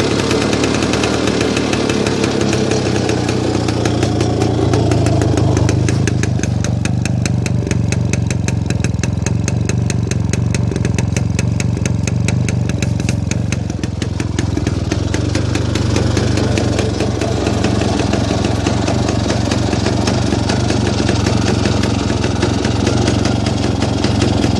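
1975 Pannonia motorcycle's single-cylinder two-stroke engine idling steadily, just started after winter storage. Its firing beat is sharper from about six seconds in until around fourteen seconds.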